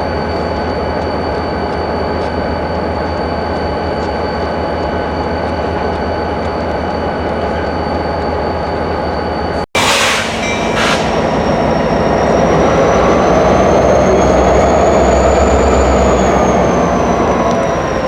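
Diesel locomotives running on a yard track, a steady engine drone. After a sudden brief dropout about ten seconds in, the sound grows louder, with a deep rumble and a high whine that slowly rises and falls.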